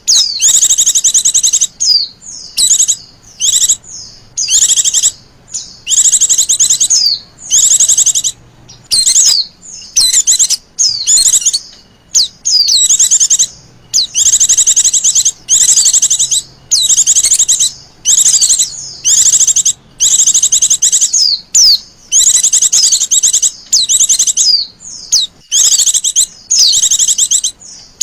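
Female white-eye (Zosterops) calling: repeated bursts of rapid, high trilling chatter, each about a second long, separated by short gaps and a few brief down-slurred notes.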